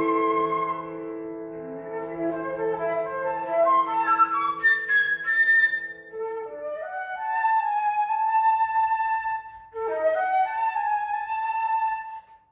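Classical flute playing with piano accompaniment: sustained notes over fading piano chords, then one long held high flute note in the middle and a quick rising run near the end.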